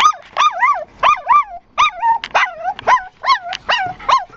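Puppies about five to six weeks old yelping and whining in a quick string of high cries, each rising and then falling, about three a second.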